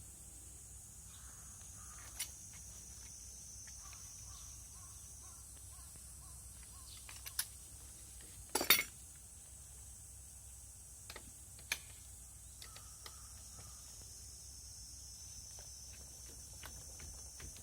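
A few scattered light metallic clicks and knocks of tools and parts being handled while working on a motorbike's oil change, the loudest about nine seconds in, over a steady faint high hiss.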